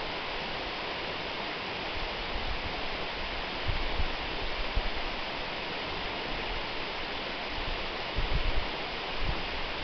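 Waterfall: a steady rush of falling water, with brief low rumbles about four and eight seconds in.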